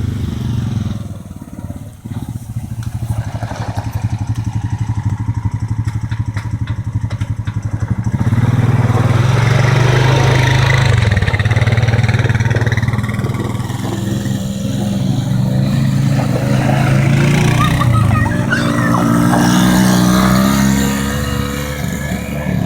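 ATV (quad bike) engine running, with a fine rapid pulse, getting louder from about eight seconds in and staying up through the rest.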